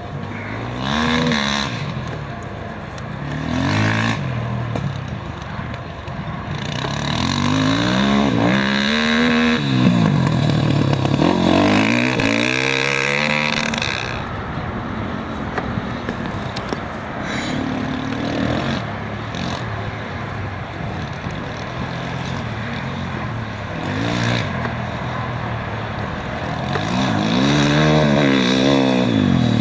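Rally motorcycles and quad bikes passing one after another on a race stage. Their engines rev hard, and the pitch rises and drops as each machine goes by, several times over.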